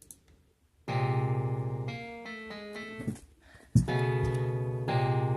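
Electric-piano-style keyboard music from a home-made song in progress. Sustained chords with a pulsing low note and a stepping melody start about a second in, break off briefly past the middle, and come back with a sharp attack.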